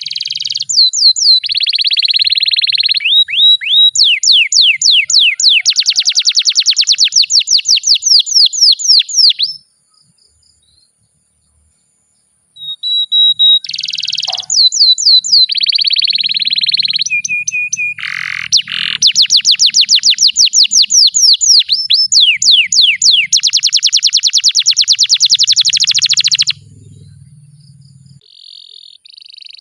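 Domestic canary singing long song phrases of fast rolling trills and rapid repeated rising notes. There are two long bouts with a silent pause of about three seconds between them.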